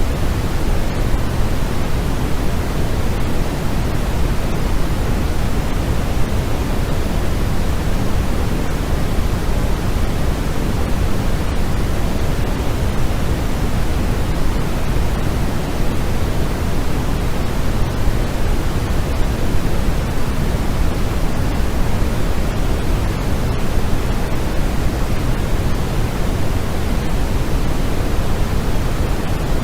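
Steady, unchanging noise of the kind sold as white noise for sleep, deeper than pure hiss with most of its weight in the low end.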